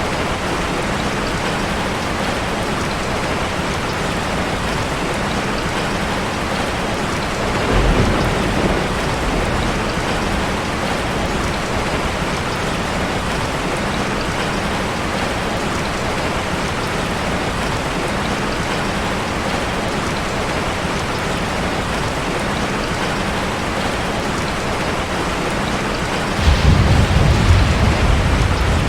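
Steady rushing water noise of a waterfall ambience, with a brief low rumble about eight seconds in and a louder, longer rumble near the end.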